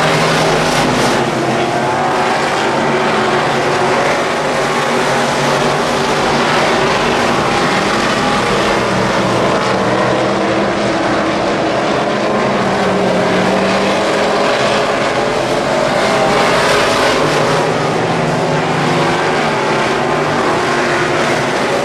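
Wissota Midwest Modified dirt-track race cars running at speed, their V8 engines loud and constant, with several engine pitches rising and falling against each other.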